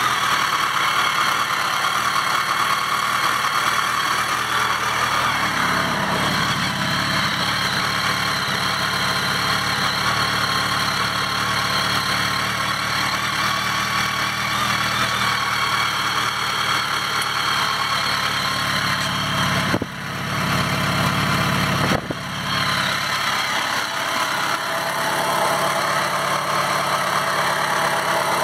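BMW K1300S inline-four engine idling steadily, with two brief drops in the sound about twenty and twenty-two seconds in.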